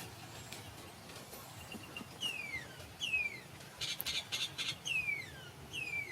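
A bird calling with a clear downward-sliding whistle, four times, a second or so apart. A short burst of rapid clicking comes between the second and third whistles.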